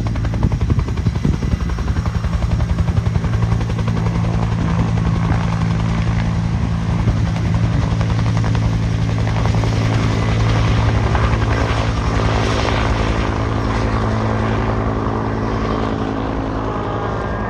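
Bell UH-1 "Huey" helicopter running, its main rotor beating rapidly over a steady low engine drone, easing off slightly near the end.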